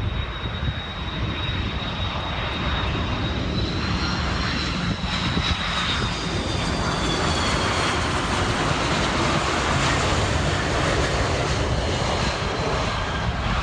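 Large jet airliner's engines passing close on approach: a steady rush with a high fan whine that rises slightly and then slides down in pitch, growing louder in the second half.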